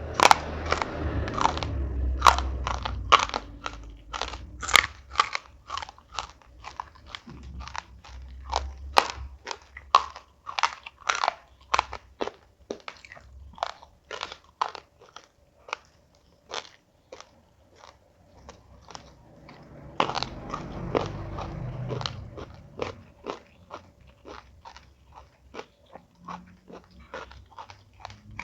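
Close-miked chewing of crunchy food, with steady crisp crunches about two to three a second, heavier near the start and again about two-thirds through.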